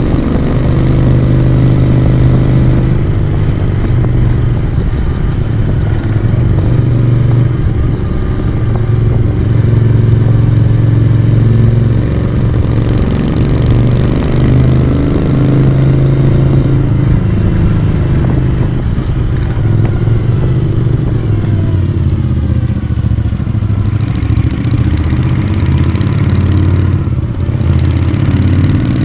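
Moto Guzzi V35 motorcycle's vintage V-twin engine and exhaust running while riding, heard from on the bike. The engine note shifts up and down in pitch and level, and dips briefly near the end.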